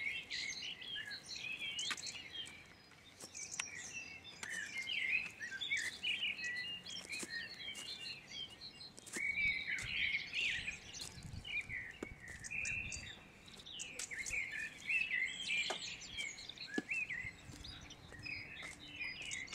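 Several wild birds chirping and singing, a dense, continuous run of short calls, fairly faint, with now and then a faint click.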